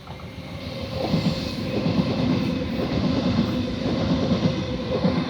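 Oscar (H-set) electric intercity train moving past at close range. Its wheels clatter on the rails under a steady motor hum, getting louder about a second in.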